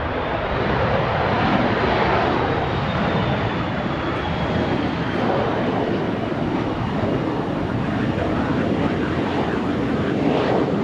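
Fixed-wing airplane passing close by with its engines running loud. A faint high whine slides slowly down in pitch as it goes past.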